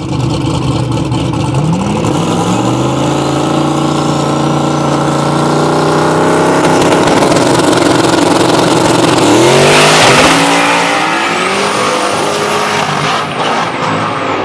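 Drag race car engine running hard, its pitch climbing about two seconds in and again about ten seconds in, where it is loudest, then dropping back. A thin high whine rises near the end.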